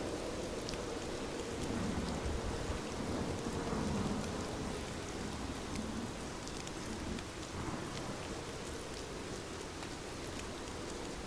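Steady rain falling on a surface: an even hiss with scattered drip ticks. A low rumble swells up about two seconds in and fades by about five seconds.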